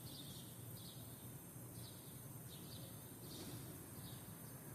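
Faint birds chirping, short high calls repeating about once or twice a second, over a steady low background hum.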